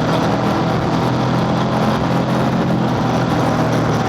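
Honda scooter's engine running steadily on the move, under a steady rush of wind and road noise.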